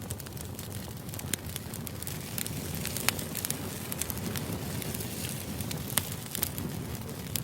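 Steady background noise with frequent irregular crackles and clicks.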